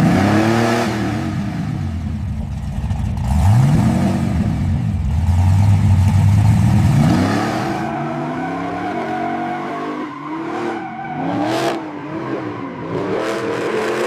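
Ford Mustang engine revving, its pitch climbing and falling with each rev, with a longer, louder rev in the middle and several quicker blips near the end.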